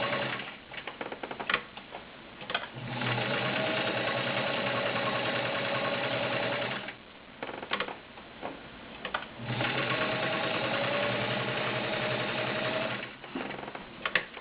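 All-metal Kenmore Model 65 sewing machine with its 1.2 amp motor stitching through six layers of denim with a size 16 needle. It sews in three steady runs of about three to four seconds each. Short clicks and knocks fill the stops between runs.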